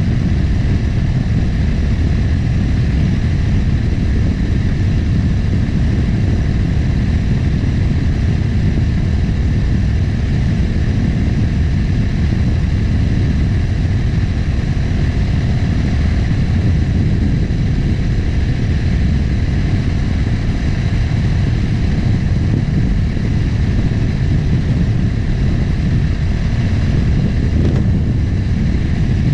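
Motorcycle engine running steadily at cruising speed, mixed with wind rushing over the microphone.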